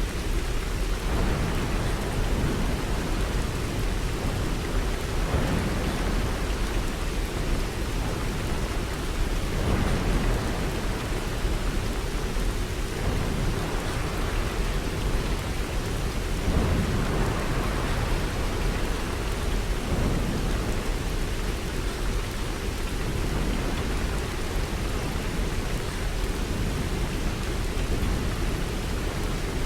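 Steady heavy rainfall, with a deep low rumble underneath that swells every few seconds.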